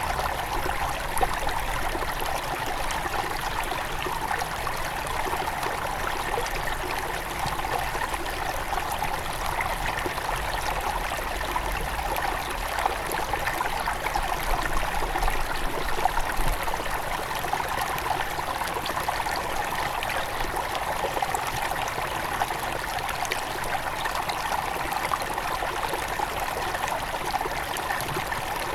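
Small mountain river near its source flowing steadily over stones, a constant rush of water with fine trickling and splashing.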